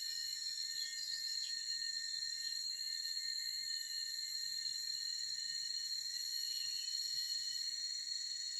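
Steady chorus of forest insects: several high-pitched trills held constant and layered together, the strongest one piercing.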